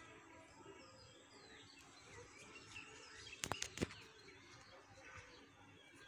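Faint birds chirping in the background, with a quick cluster of sharp clicks a little past halfway.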